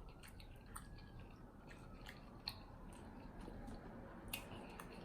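Quiet chewing of sauce-coated chicken wings, with a few sharp wet mouth clicks from the thick sticky sauce.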